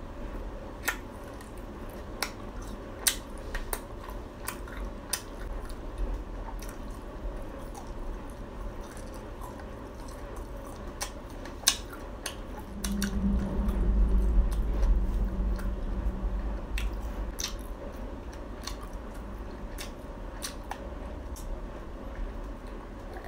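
Close-up mouth sounds of a person chewing fried Khmer crispy cakes: soft squishy chewing with scattered sharp clicks. About 13 seconds in, a louder low muffled sound lasts two or three seconds.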